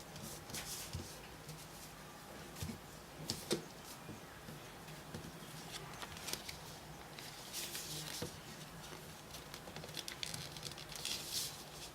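Sheet of paper being handled and folded by hand: soft rustles and crinkles with scattered light taps and creasing clicks, over a faint steady low hum.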